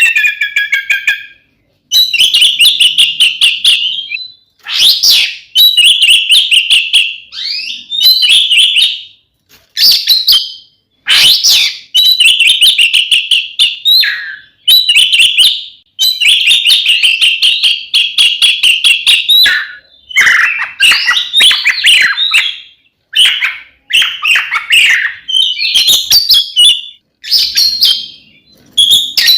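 Oriental magpie-robin (kacer) singing loudly and without let-up in rapid, trilled phrases of many fast notes, with short breaks between phrases. This is the full combative song used to provoke other magpie-robins.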